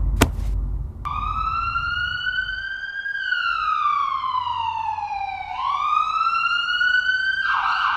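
Emergency vehicle siren wailing: one long tone that starts about a second in, rises slowly, falls, then rises again. A single sharp knock just before it.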